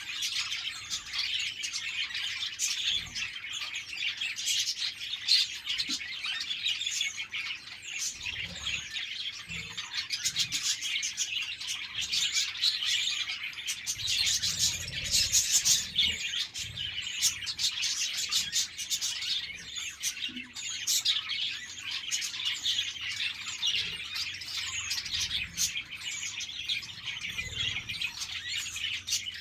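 A flock of budgerigars chattering and chirping continuously, many overlapping short calls and warbles.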